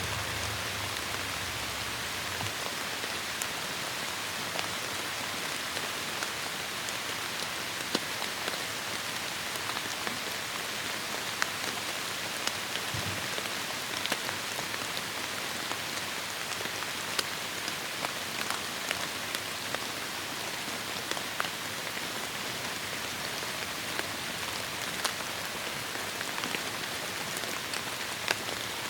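Heavy rain falling steadily on forest foliage, a dense hiss with many sharp individual drop ticks scattered through it.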